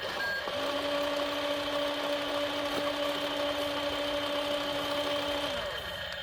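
Small electric motor of a radio-controlled toy dump truck whining steadily, then dropping in pitch as it stops near the end.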